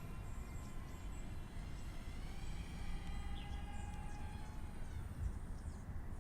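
Wind buffeting the microphone as a low rumble, with faint thin whining tones above it that drift slightly in pitch.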